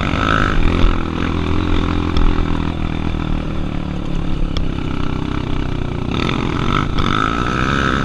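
Single-cylinder four-stroke Honda trail-bike engine running under way, its revs rising and falling.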